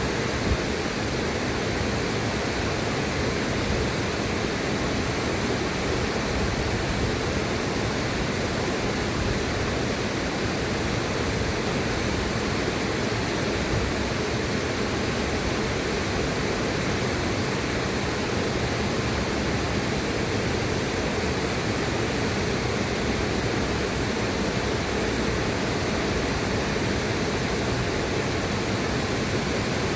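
River water rushing, a steady even noise with no change in level.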